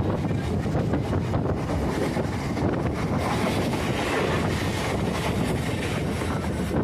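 Passenger train running along the track, heard from on board as a steady noise, with wind buffeting the microphone.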